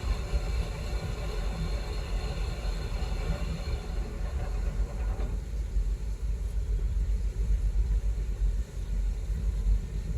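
Heavy diesel machinery running with a steady low rumble. A higher whine over it dies away about five seconds in.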